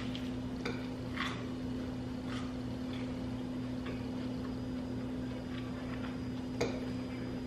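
Soft, scattered clicks and smacks of people eating pasta, a few separate ones spread through, over a steady low electrical hum.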